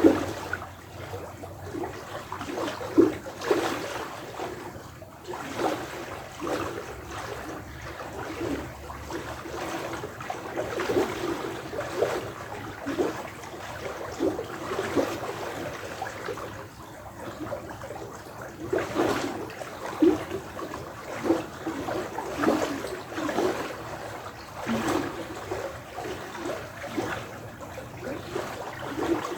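Running water trickling and splashing, with frequent irregular bubbly plops and gurgles.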